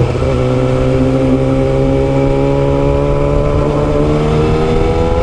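Yamaha R6's 600cc inline-four engine with a custom exhaust, pulling under steady acceleration while riding, its pitch rising slowly and evenly.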